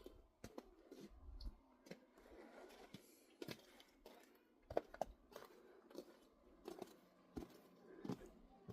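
Faint, irregular crunching footsteps on frozen snow and ice, a step or two every second.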